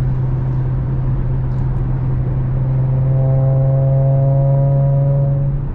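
2017 Audi SQ5's V6 through AWE non-resonated downpipes and Touring catback exhaust, heard from inside the cabin while cruising in sixth gear: a steady low drone. A higher hum joins about three seconds in and stops just before the end, as the sound swells slightly.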